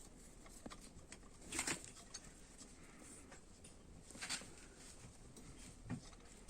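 Quiet handling noises: a few light clicks and rustles as a motorcycle engine's timing chain and chain guide are fitted by hand.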